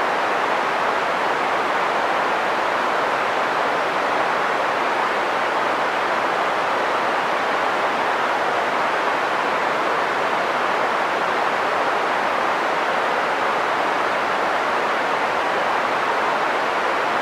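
Green noise: a steady, even hiss centred in the mid range, with little deep bass or high treble, and no change in level.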